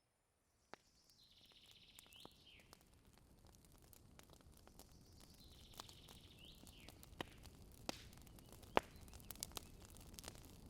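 Campfire fading in from silence: burning wood crackling with a low rush and scattered sharp pops, the loudest a little before the end. A bird calls twice in the background, each call a held high note ending in a quick downward flick.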